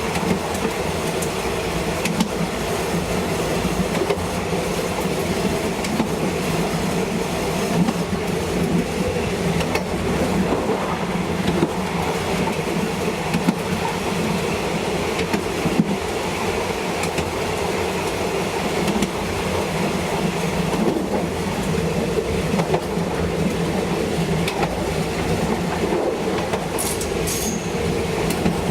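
A train running steadily on the rails, heard on board: an even rumble of wheels and carriage with scattered clicks from the rail joints.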